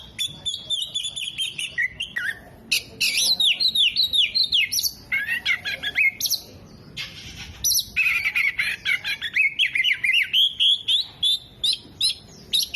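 Oriental magpie-robin (kacer) singing hard: a long falling whistle, then a fast run of varied chirps, trills and repeated notes, a song that mixes in imitated calls of other birds.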